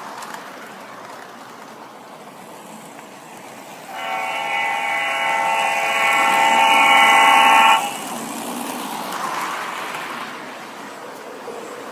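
Lionel model train locomotive's electronic horn sound effect blowing one long, steady blast of about four seconds that cuts off sharply, over a low background rumble.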